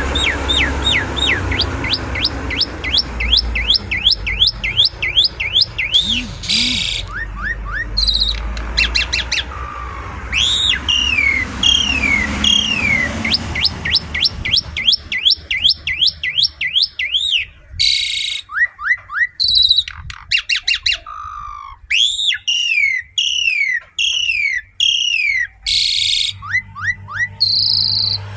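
Jalak suren (pied starling) singing vigorously: fast runs of repeated whistled notes that slide downward, broken every few seconds by short, harsh rasping bursts.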